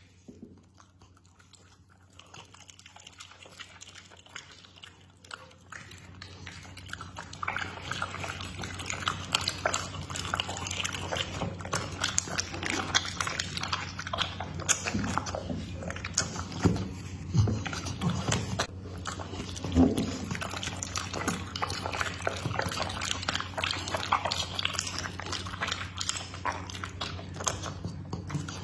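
Pit bull eating, with close-up chewing, crunching and wet smacking of its food. It starts faint and becomes steady, busy biting from a few seconds in.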